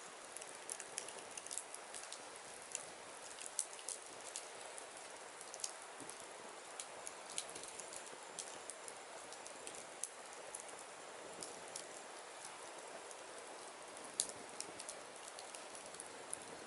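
Firewood burning, with a steady hiss and frequent irregular sharp crackles and pops.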